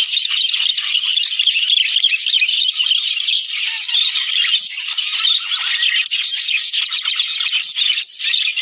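A flock of budgerigars chattering and warbling, a dense, unbroken mass of quick high notes: the flock sound played to budgies to encourage them to breed.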